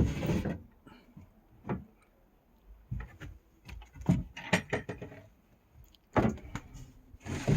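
Irregular knocks, clunks and rattles of boat fittings being handled and moved, loudest right at the start and again in small clusters partway through and near the end.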